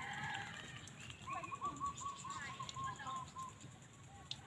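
Birds calling, with a quick string of about ten short repeated notes lasting about a second and a half.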